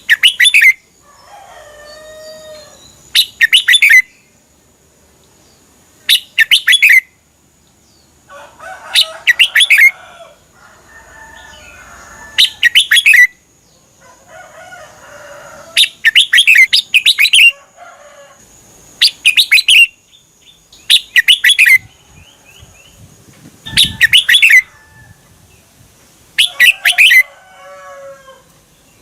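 Red-whiskered bulbul singing loud, short, bright song phrases about every two to three seconds, with softer, lower bird warbling between them.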